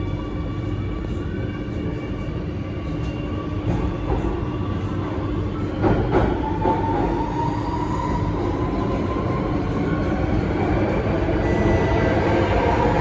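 Cabin of an Alstom Metropolis C830C metro train picking up speed: a steady rumble of running gear with a few knocks about six seconds in, then a motor whine that rises slowly in pitch as the noise grows louder.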